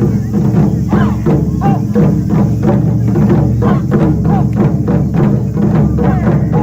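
Japanese taiko drums played in an ensemble, beating rapid, even strokes, several a second.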